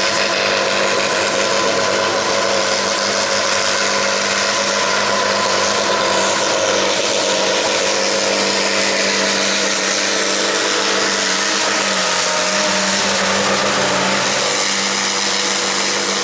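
Farm tractor's diesel engine held at full throttle under heavy load while pulling a weight-transfer sled down the track. The engine note and a high whine stay steady.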